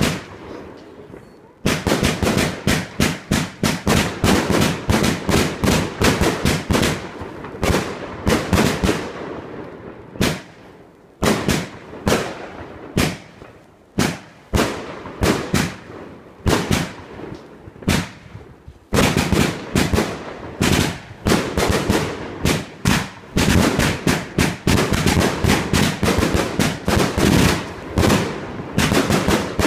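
Fireworks display going off: rapid volleys of sharp bangs, thinning briefly a few times before picking up again.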